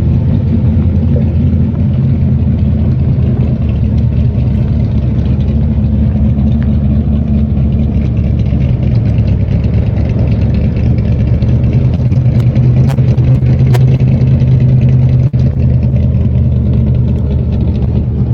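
Modified 1964 Corvette's 406-cubic-inch V8 running at a steady, loud idle, its deep rumble swelling a little about two-thirds of the way through.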